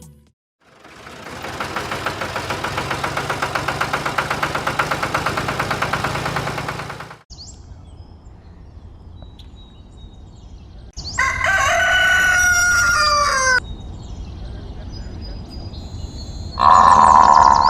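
A rooster crowing once, about eleven seconds in, for about two and a half seconds. Before it comes a steady, rapidly pulsing drone lasting about six seconds, and near the end a loud steady tone begins.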